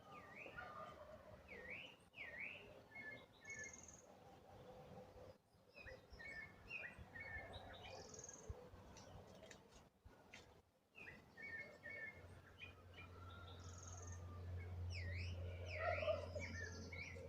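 Several birds chirping and calling, faint, with quick swooping chirps and short repeated notes. A low steady hum comes in about twelve seconds in.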